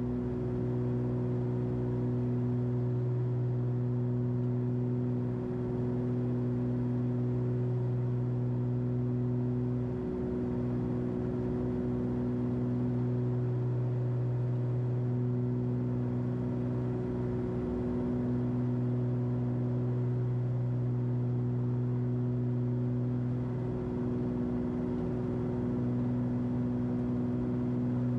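Cessna 340's twin turbocharged six-cylinder piston engines and propellers droning steadily at climb power, heard in the cockpit. The drone swells and dips slightly every few seconds.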